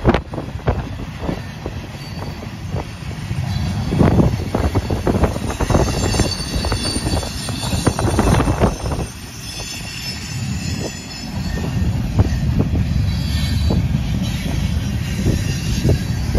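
Freight cars of a long manifest train rolling past: a steady low rumble with wheels clacking over rail joints and faint high-pitched wheel squeal coming and going.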